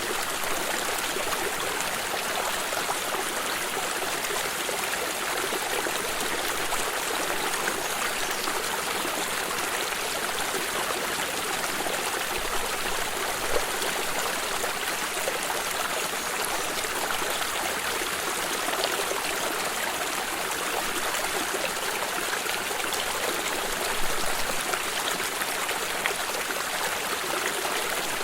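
Flowing stream, a steady rushing of water with light trickling, and a couple of slightly louder splashes about halfway through and near the end.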